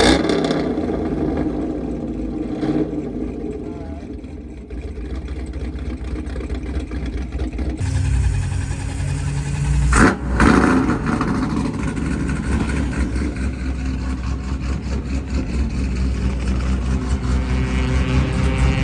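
Car engines revving and idling, with the rumble stepping up about eight seconds in. A single sharp crack about ten seconds in, then an engine note rising near the end as a car accelerates.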